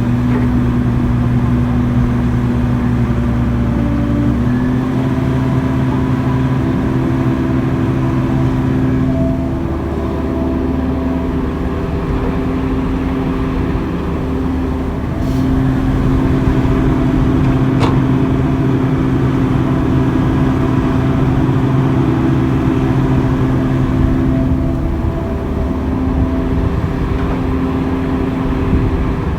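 Diesel engine of heavy earthmoving machinery running steadily, its pitch and load shifting every several seconds as the machine works.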